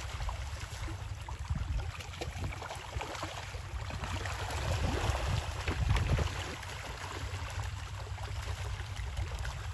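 Pond water splashing and sloshing irregularly as a fish-harvesting net is hauled through it with fish caught inside, over a steady low rumble.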